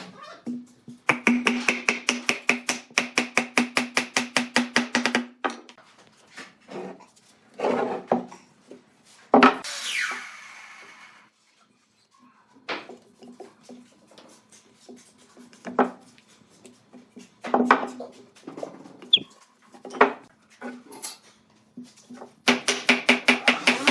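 Fast, even back-and-forth rubbing strokes on wood for about four seconds, like hand sanding or filing. These are followed by scattered knocks and taps of wood and tools, with one louder clatter that rings briefly about ten seconds in.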